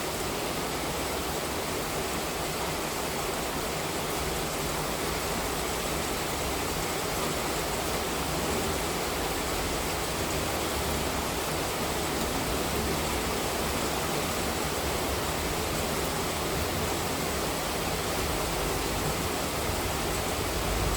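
Heavy rain pouring steadily, a dense, even hiss with no separate drops standing out.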